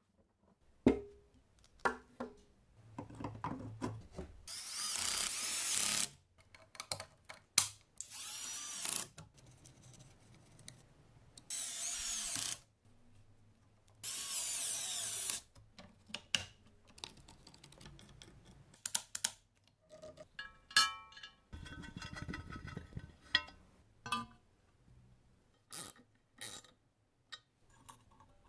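Workshop sounds of restoration work: several short bursts of a power tool, each about a second long, in the first half, between clicks and knocks of metal parts being handled, then a rapid run of ratcheting, clinking clicks about three quarters of the way through.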